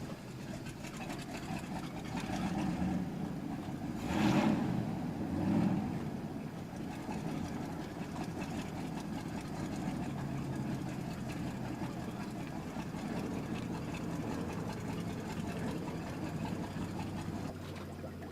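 Chris-Craft performance boat engine running at a steady idle, with a brief louder surge about four seconds in and a smaller one shortly after.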